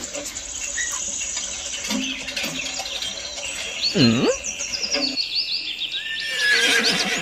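Birds chirping, with a steady high insect trill joining a few seconds in, as a nature ambience. About four seconds in, a single short sound swoops down in pitch and back up.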